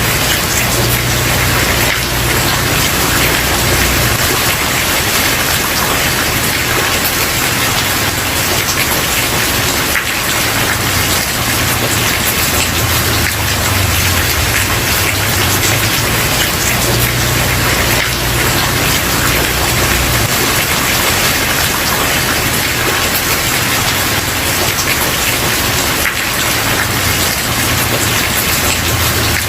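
Steady rain falling on a wooden porch, an even dense patter throughout, with a low rumble that swells and fades underneath.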